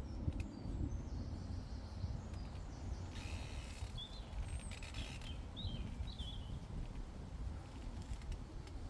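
Outdoor meadow ambience: a steady low wind rumble on the microphone, with a few short bird chirps about halfway through.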